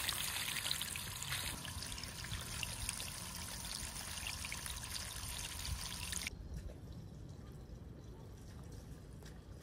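Water running and trickling steadily, cutting off abruptly about six seconds in and leaving faint low outdoor background.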